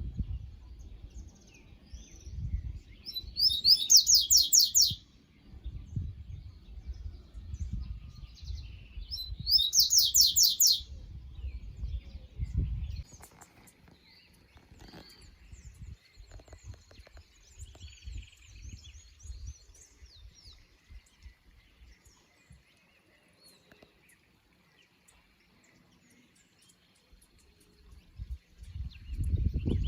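A songbird singing two loud, fast trills of rapidly repeated high notes, each about two seconds long and several seconds apart, with fainter bird calls between and after. A low rumble runs under the first half, then stops.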